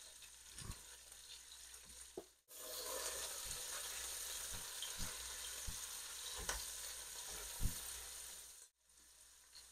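Onion frying in hot oil in a pot, a steady sizzle, with a few light knocks of the spoon against the pot as it is stirred. The onion is about halfway fried. The sizzle is louder through the middle and cuts off abruptly twice.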